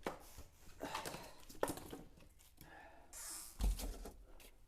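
Dry and damp twigs being laid by hand on paper in a fireplace as kindling: light knocks and clicks of wood, a brief rustle, and a dull thump near the end.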